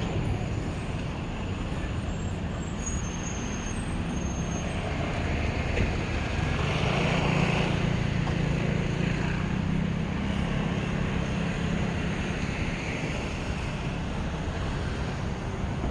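Wind rumbling on the microphone over street traffic noise, with a passing engine's hum swelling about six seconds in and fading a few seconds later.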